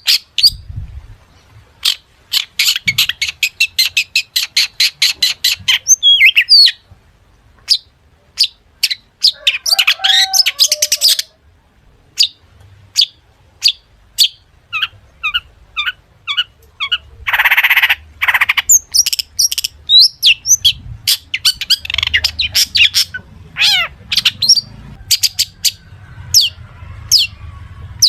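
Long-tailed shrike (cendet) singing a song full of mimicked calls of other birds: sharp high chirps and whistled notes, a fast run of rapidly repeated notes a couple of seconds in, and one harsh rasping call a little past halfway.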